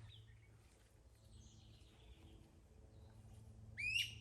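Quiet natural ambience with a single short bird call near the end, a quick upward-sweeping note that is the loudest thing here.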